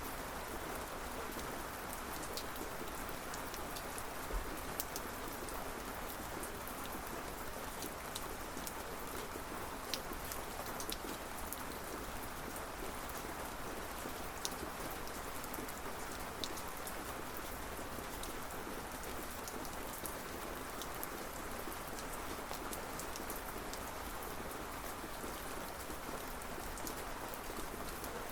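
Steady rain falling, with a scattering of sharp individual drop ticks.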